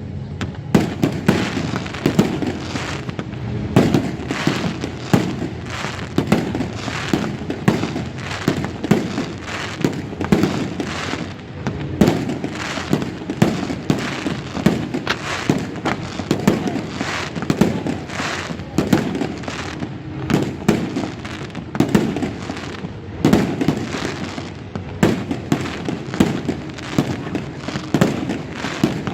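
Fireworks display: a dense, unbroken barrage of bangs from bursting shells, several a second.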